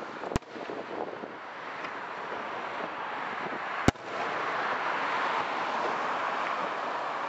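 Aerial firework shells bursting: two sharp bangs about three and a half seconds apart, over a steady rushing background noise that grows louder after the second bang.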